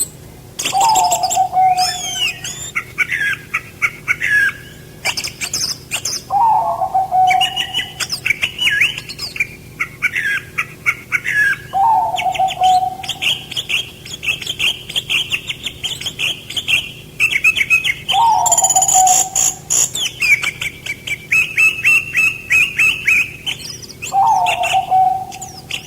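Songbirds singing continuously: busy chirping and trilling phrases with high whistles, and a lower falling note that returns about every six seconds.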